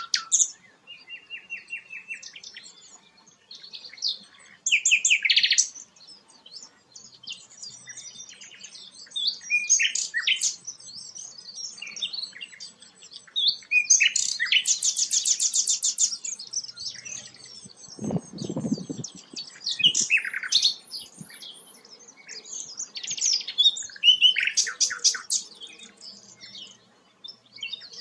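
A songbird sings a long string of varied phrases: rapid trills, quick chirps and whistled notes, broken by short pauses. About two-thirds of the way through there is a short, low, muffled thump.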